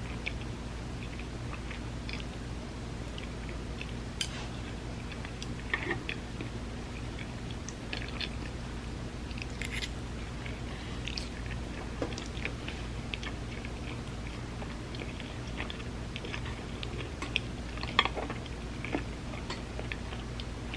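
Close-miked chewing of vegan spam musubi: soft wet smacks and small clicks from the mouth at an irregular pace, with a few sharper clicks now and then. A steady low hum runs underneath.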